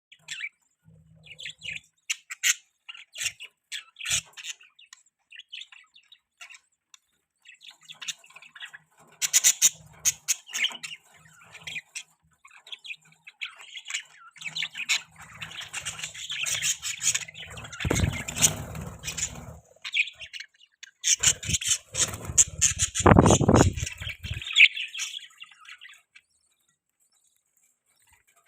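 Budgerigars chirping and chattering in quick short chirps and squawks, busiest and loudest in two stretches past the middle, where a low rumbling noise runs beneath them. The chirping dies away shortly before the end.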